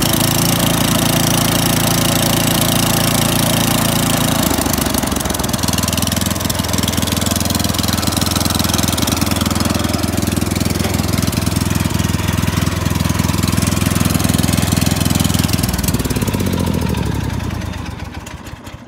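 18 hp Kohler 5400 series single-cylinder engine on a Craftsman LT1000 lawn tractor running at a steady speed. Near the end it slows, its pitch falling as it dies away.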